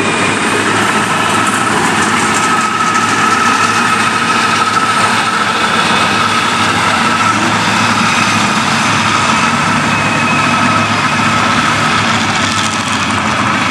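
Truck engine running loud and steady, with a high whine held over it.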